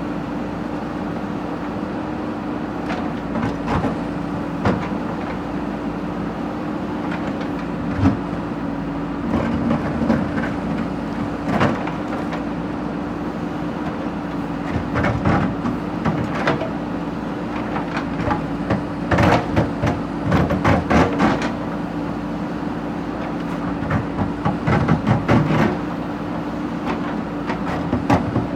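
Backhoe loader's diesel engine running steadily, with irregular metallic clanks and knocks, heaviest in the second half.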